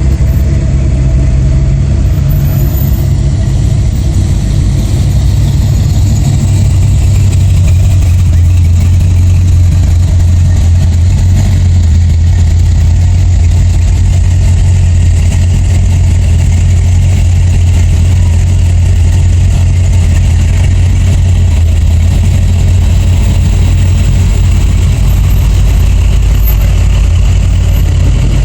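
Steady low rumble of car engines idling and creeping along at low speed.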